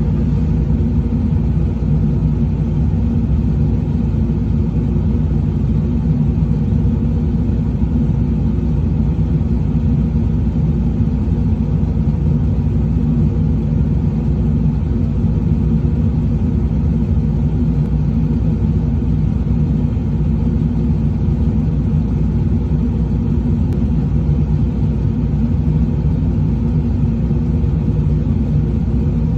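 Truck engine running steadily at one constant speed, a low rumble with no revving or change.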